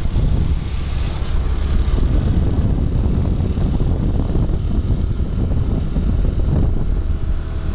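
Wind buffeting the microphone on a moving motorcycle, over the steady drone of its engine.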